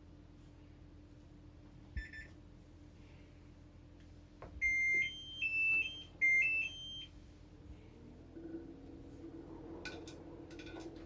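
Slanted-drum washer-dryer's electronic control panel: a single short beep, then a short jingle of stepped high beeps a couple of seconds later. A low steady hum with a few faint clicks follows near the end.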